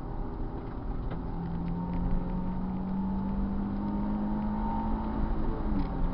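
Car engine running under steady load with its pitch rising slowly, then dropping a little near the end, over road and wind noise.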